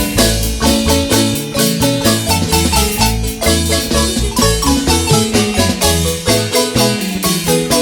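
A marimba band plays an instrumental tune: a fast melody of struck marimba notes over deep bass notes and a steady percussion beat.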